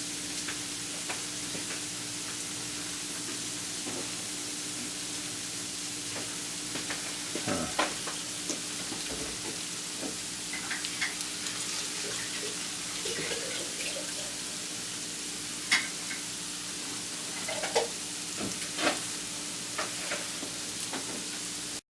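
Pork and vegetables sizzling as they stir-fry in a pan, with a utensil scraping and clicking against the pan now and then, over a steady low hum. The sound stops abruptly near the end.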